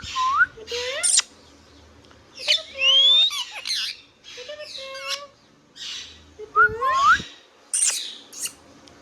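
Indian ringneck parakeet calling: a string of short squawks and rising, gliding whistled notes, about six bursts with brief pauses between.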